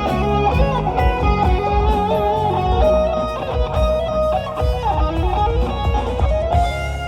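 Live band playing: an electric guitar lead with bending notes over bass guitar and drums.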